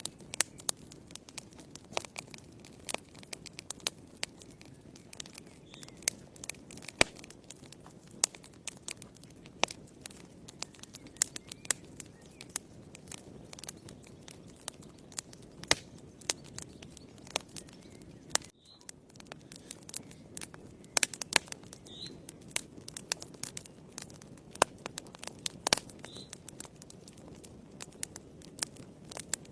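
Wood fire burning in a fireplace: frequent irregular crackles and sharp pops over a steady low rustle of flames.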